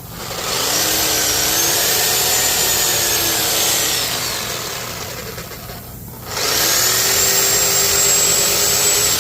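Power cutting tool running twice, cutting through metal on the engine, with a high whine riding over the grinding noise; each cut starts with the pitch climbing to a steady level, with a short pause between the cuts.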